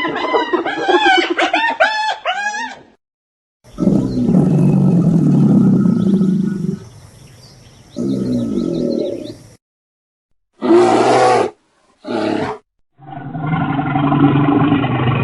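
A string of different animal calls, each cut off by a short silence. First comes a run of quick, repeated rising-and-falling calls. Then a long low rough roar and a shorter low call, two brief calls, and a pitched drawn-out call near the end.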